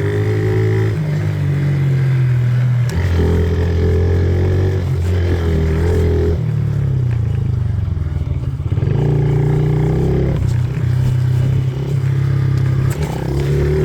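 Yamaha dirt bike engine revving under a rider, its pitch climbing and dropping in steps as the throttle is worked and gears change. It eases off for a few seconds in the middle before picking up again.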